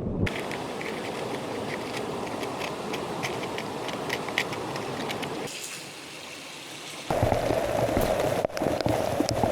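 Heavy rain falling, a steady hiss with individual drops ticking. The sound changes abruptly twice, dropping quieter about five and a half seconds in and coming back louder at about seven seconds.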